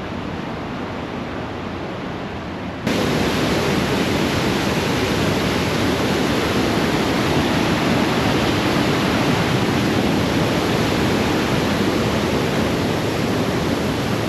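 Steady rushing noise of the Iguazu Falls' cascading water, jumping louder about three seconds in and holding level after.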